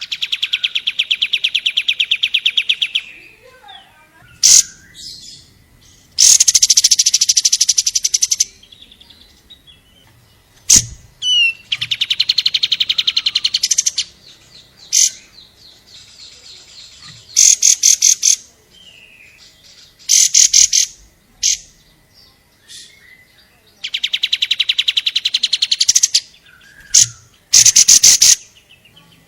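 Long-tailed shrike (cendet) singing loudly: several bursts of very fast, high trilled notes, each lasting one to three seconds, with short sharp calls in the gaps between them.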